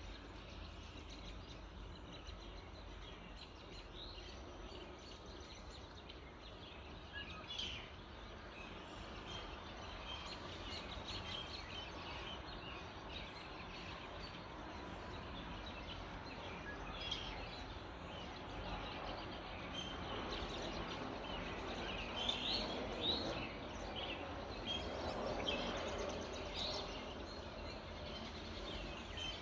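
Several birds chirping and singing in a dawn chorus over a steady background hiss, the calls growing busier in the second half.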